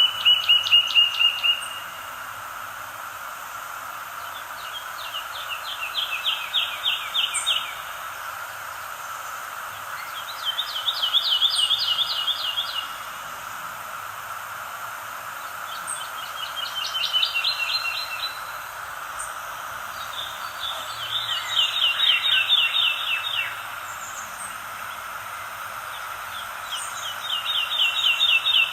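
A songbird repeating one rapid trilled song, each about two seconds long, six times at intervals of about five seconds, over a steady background hiss.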